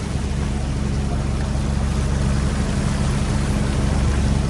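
Fishing boat's engine running steadily, a low hum with a broad hiss of water and deck machinery over it.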